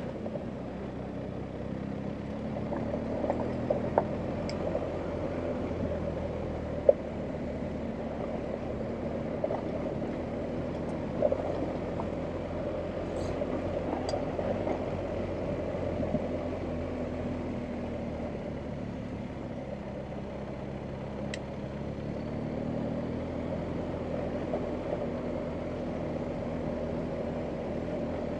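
BMW R1250GS Adventure's boxer-twin engine running at low revs, rising and falling as the bike rides an off-road track, with a few sharp knocks, the loudest about seven seconds in.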